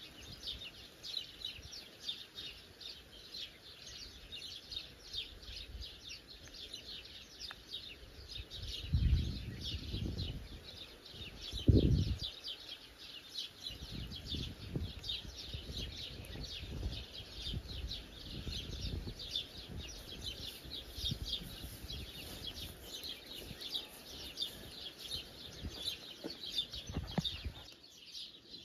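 Dense, continuous chorus of songbirds chirping and twittering. Low thuds and rumbles cut in about a third of the way through, the loudest near the middle, with softer ones for several seconds after.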